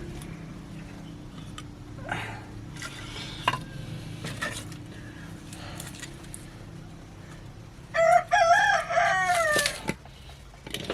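A rooster crows once, loud, for about two seconds near the end, after a stretch of faint clicks and knocks.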